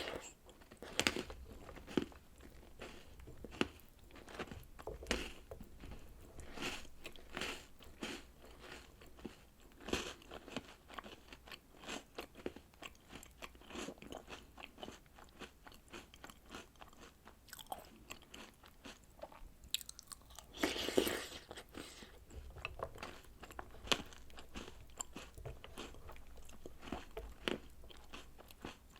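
Close-up eating sounds: crunchy chocolate snacks and cereal soaked in milk, bitten and chewed in many short crunches, with one louder, longer noise about twenty seconds in.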